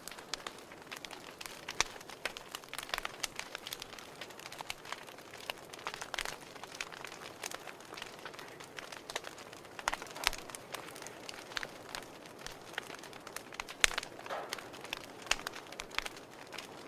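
Fire crackling: irregular sharp pops and snaps over a soft steady hiss, with a few louder pops about 2, 10 and 14 seconds in.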